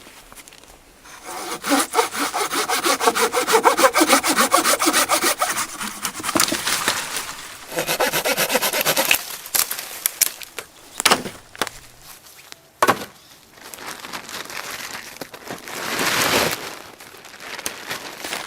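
Hand saw cutting wood in rapid back-and-forth strokes, in a long run and then a shorter one. A few sharp knocks and a brief scrape follow.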